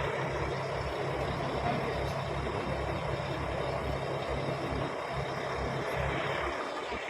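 18 hp outboard motors on racing boats running steadily at speed, easing off slightly near the end.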